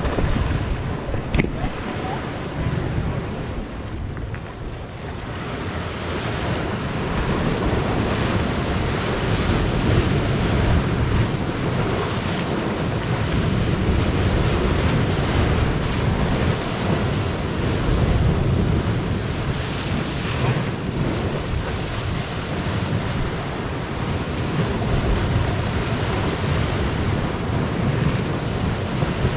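Big ocean waves breaking and surf rushing, swelling and easing, with wind buffeting the microphone.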